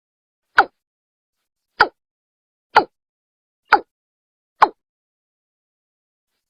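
Watercock (Gallicrex cinerea) calling: five short, sharp notes about a second apart, each dropping quickly in pitch, with silence between them. This is the call played back to lure watercocks.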